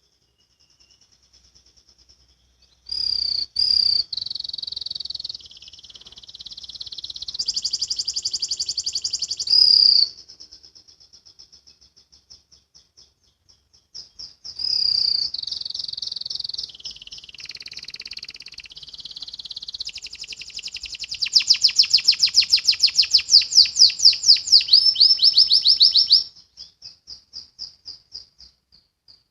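Canary singing: two long, loud phrases of high, rapid trills and rolling repeated notes, one starting about three seconds in and one about fourteen seconds in, with soft chirps between them and trailing off at the end.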